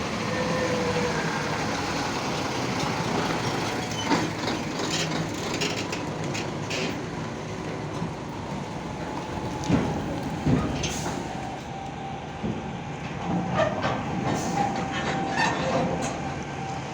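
Heavy container truck under way: steady engine and road noise with repeated metallic clanks and knocks from the chassis and load. The strongest knocks come about ten seconds in.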